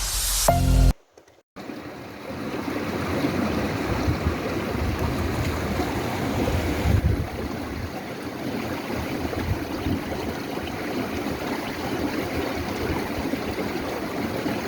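Stream water running steadily, a constant rushing noise that drops a little about halfway through. In the first second, electronic background music ends, followed by a moment of silence.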